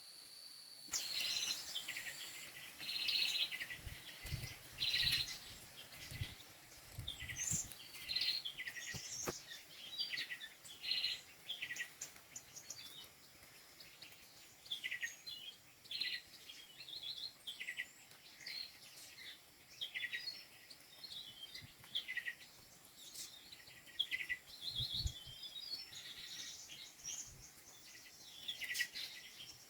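Birds calling throughout, a dense run of short chirping notes one after another, with a few low thuds mixed in.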